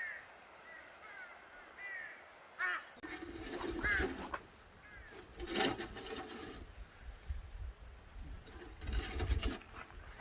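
Birds calling outdoors in the morning, a string of short, curved calls over the first few seconds. From about three seconds in, bursts of rustling noise with a low rumble come over them.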